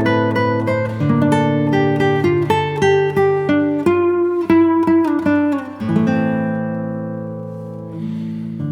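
Background music: acoustic guitar picking a run of plucked notes, then letting a chord ring out and fade about six seconds in.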